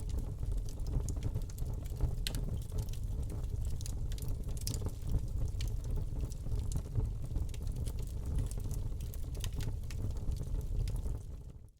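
Wood fire crackling in a fireplace: frequent small, sharp pops and snaps over a steady low rumble of flames. The sound fades out to silence right at the end.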